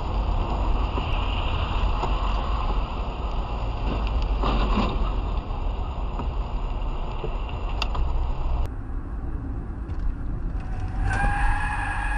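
Car driving, with a steady, heavy low road-and-engine rumble. It cuts to a quieter stretch of road noise, and a held tone sounds near the end.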